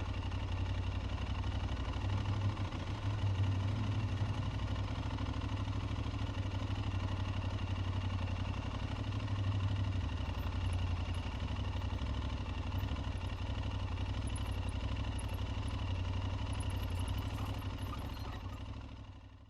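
Aprilia Tuareg 660's parallel-twin engine running steadily, fading out near the end.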